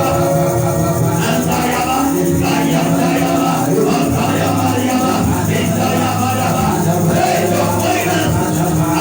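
Gospel worship music with sustained chords and a shaken hand-percussion rhythm, under many voices singing and praying aloud together.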